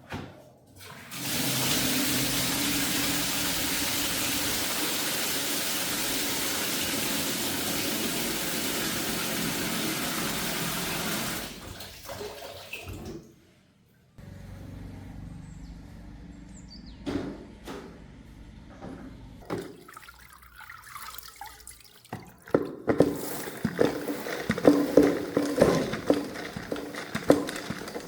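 Water gushing steadily for about ten seconds, as from a tap or hose during cleaning, then stopping. After a short lull, a run of irregular knocks and clatter from hand work near the end.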